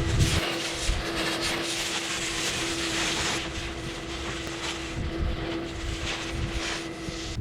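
Electric pressure washer running with a steady motor hum while its jet hisses against the boat hull, cleaning off fouling; its pressure is low. The sound cuts off abruptly at the end.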